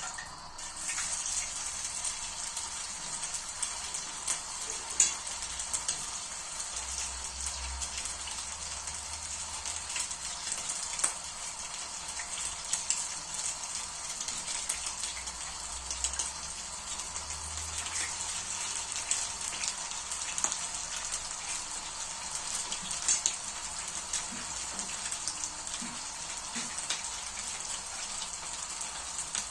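Cotlet patties frying in oil: a steady sizzle with scattered crackles and pops.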